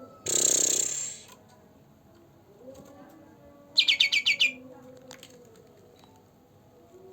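Caged songbird calling: one harsh, rasping burst about a second long near the start, then a quick run of about seven sharp, high chirps a little before the middle.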